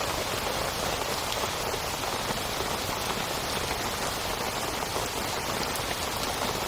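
Heavy rain falling steadily on a tent, with a dense patter of individual drop ticks.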